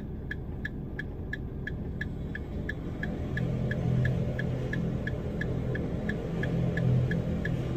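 A Jungfrau Railways electric train runs onto a bridge, its low hum growing from about three seconds in. Over it a warning signal pips steadily, about three times a second.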